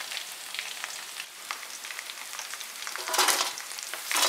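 Chicken 65 pieces deep-frying in sesame oil: a steady crackling sizzle, with two louder crackles near the end.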